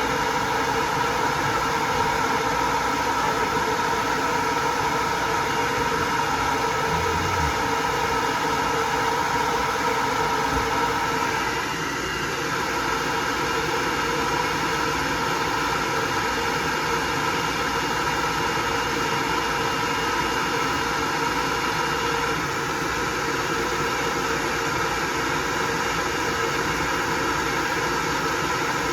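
Hair dryer blowing steadily, a whirring rush of air with a steady motor hum, dipping slightly in level about twelve seconds in.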